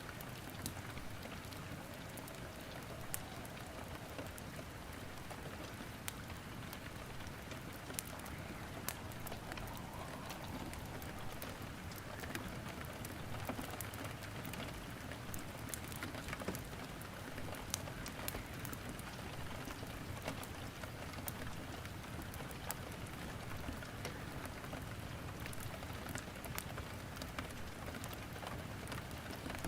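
Steady rain hiss with frequent sharp crackles and pops from wood burning in a fireplace, scattered irregularly throughout.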